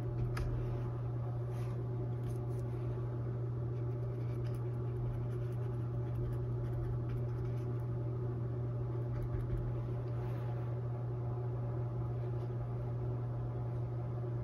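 Steady low machine hum with several constant overtones, with faint scratchy strokes of a brush on canvas.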